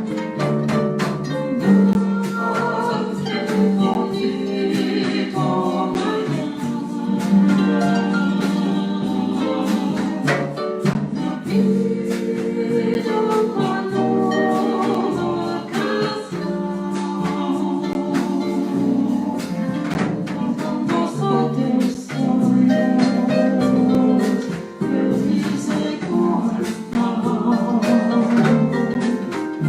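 Live Brazilian jazz played by a small band with harp, a continuous passage of pitched notes with sharp plucked and percussive attacks.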